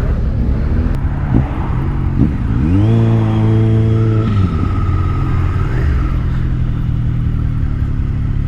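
Motorcycle engine running on the road, revving up about two and a half seconds in, holding steady, then dropping back a little after four seconds, over a steady low hum and road noise.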